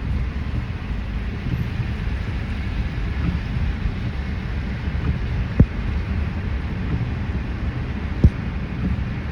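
Steady low road and engine rumble inside a moving car, with two short sharp knocks, one about five and a half seconds in and another near the end.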